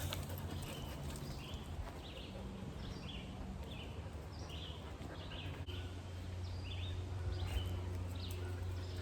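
Short bird chirps repeating about twice a second over a low steady rumble.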